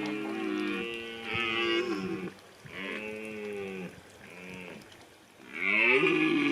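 Holstein cattle mooing: a run of calls one after another, some overlapping, with a louder call near the end.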